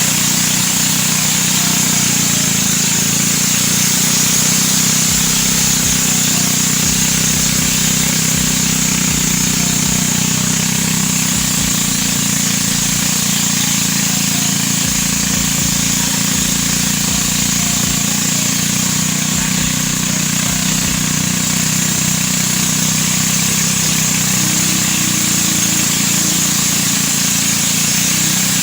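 An engine running steadily at an even speed, a low hum with a steady high hiss above it.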